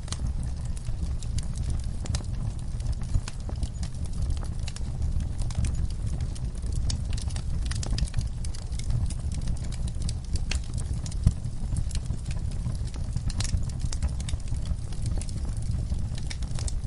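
Wood fire crackling, with irregular sharp pops throughout over a steady low rumble; two louder pops come about three and eleven seconds in.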